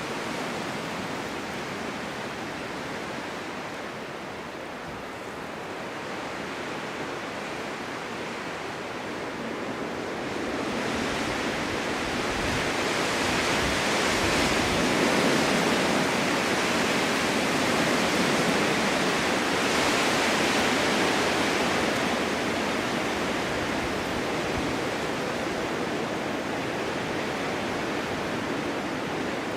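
Strong winter wind blowing in steady gusts, a continuous rushing hiss that swells louder about a third of the way in and eases slightly near the end.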